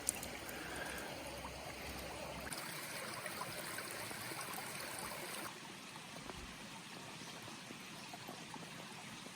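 A small stream flowing and trickling, as a steady, gentle rush of water that turns a little quieter about halfway through.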